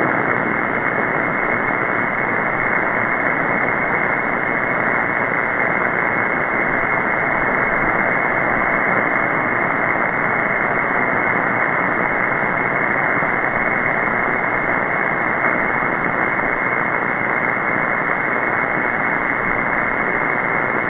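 Shortwave SDR receiver's steady hiss of band noise on the 20-metre upper-sideband channel with no station transmitting, cut off sharply above about 2 kHz by the sideband filter.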